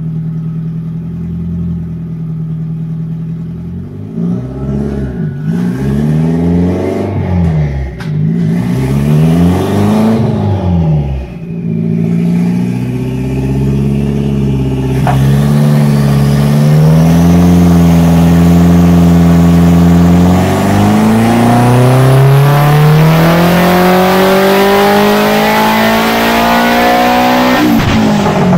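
Big-turbo Audi 1.8T 20-valve four-cylinder on a hub dyno: idling, then several quick throttle blips, then a long full-throttle pull whose pitch climbs steadily for about twelve seconds with a high whine rising with it, before the throttle is lifted sharply near the end.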